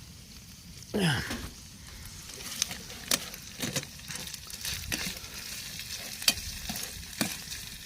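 Bacon frying in butter in a pan on a camping stove, sizzling steadily with scattered crackling pops. A short scrape about a second in.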